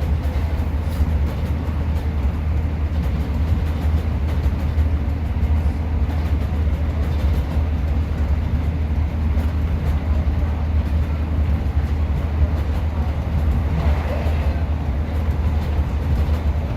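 Class 150 diesel multiple unit under way, heard from inside the carriage: a steady deep rumble of the underfloor diesel engine and the wheels on the track.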